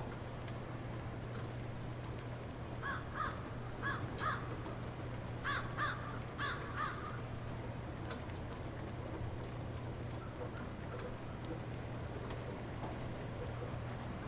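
Light rain falling steadily. About three seconds in, a bird gives a run of about eight short calls in pairs, ending about seven seconds in.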